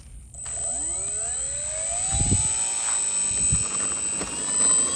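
Electric motor and propeller of a BlitzWorks Cessna 182 RC model plane throttling up: a whine that rises in pitch for the first few seconds and then holds, with a steady high whistle above it. There are two low thumps partway through.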